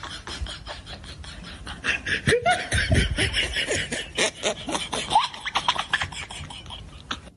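A person laughing in a rapid string of short bursts, growing louder about two seconds in.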